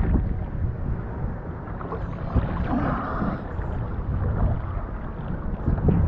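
Wind buffeting the microphone, a steady low rumble, with a couple of faint knocks.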